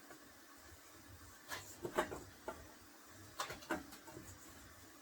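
Hands kneading flour dough for dumplings in a pan: irregular soft slaps and squishes, a few in a row about a second and a half in and again past three seconds.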